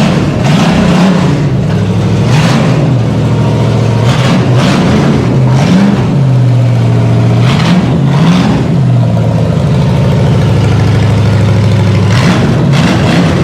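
Small Block Chevy V8 running on an engine stand, loud and steady, revved up and back down several times.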